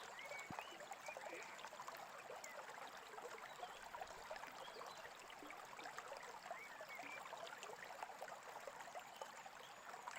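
A small stream trickling and babbling quietly, with a few faint bird chirps about half a second in and again around seven seconds.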